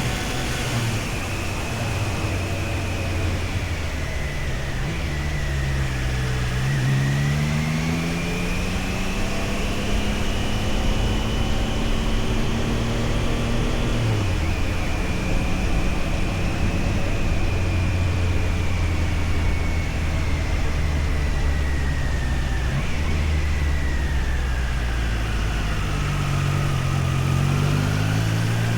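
Triumph Tiger Sport 660's three-cylinder engine on the move. Its pitch falls and climbs again several times as the rider works the throttle and gears, with a fainter high whine rising and falling alongside it.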